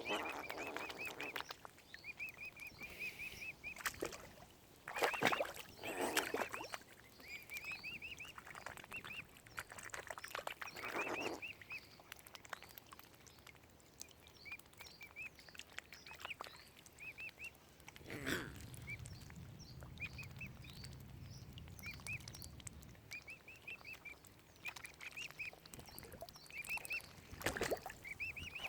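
Mute swan cygnets peeping: quick runs of short, high peeps repeated throughout, broken by a few louder, rougher sounds.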